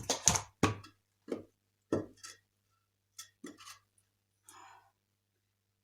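Objects being handled and set down by hand: a quick cluster of knocks and clatters in the first second, then a few scattered taps and a short scrape. A faint steady low hum runs underneath.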